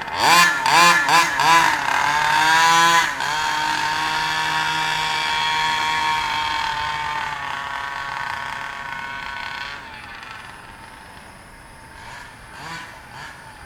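Losi 5ive-T's 36cc Rovan two-stroke engine, fitted with a new 8k clutch, revved in several quick blips and then held at high revs. It settles to a steady note that fades away as the truck drives off, with a few faint revs near the end.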